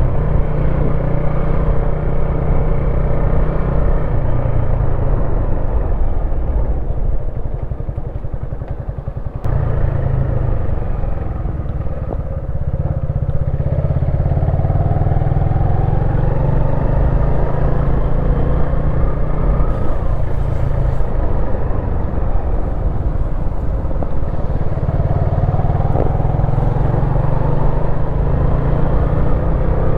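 Wolf Classic 125cc motorcycle engine running under way. It drops off for a couple of seconds about a third of the way in as the throttle is eased, then the pitch climbs as it accelerates, and climbs again near the end.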